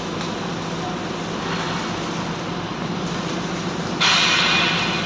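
Steady mechanical rumble with a low hum, and a loud hiss that breaks in about four seconds in and fades within a second.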